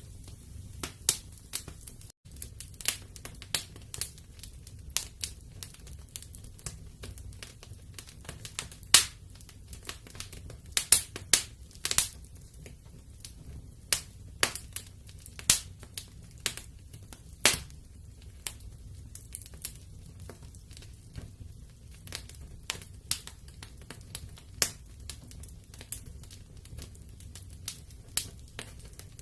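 Wood fire in a fireplace crackling: irregular sharp pops and snaps, a few a second, over a steady low rumble of the flames.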